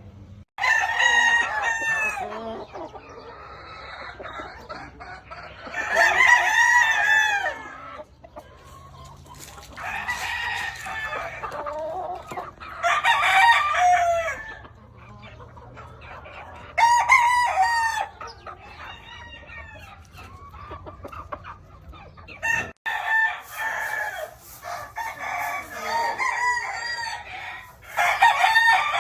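Gamefowl roosters crowing again and again, about eight loud crows spread over the stretch, some overlapping, with quieter calls from other birds in between.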